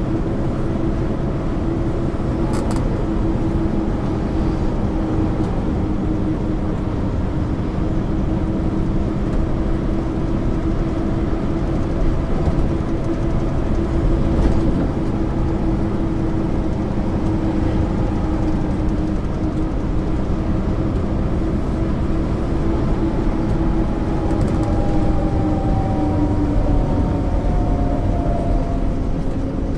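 MAN ÜL 353 interurban bus's diesel engine running steadily as the bus drives along, heard from on board. Near the end a whine slides down in pitch.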